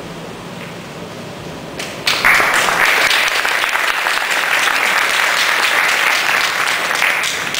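Audience applauding: the clapping starts suddenly about two seconds in, holds steady, and dies away near the end.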